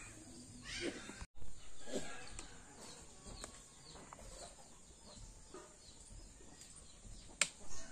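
Small birds chirping over and over in short, quick downward notes, with a few faint knocks. The sound cuts out completely for a moment about a second in, and there is a sharp click near the end.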